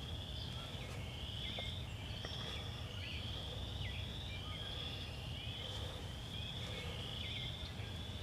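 A short buzzy trill rising in pitch, repeated about once a second without a break, over a steady low rumble, with a few faint chirps of other animals.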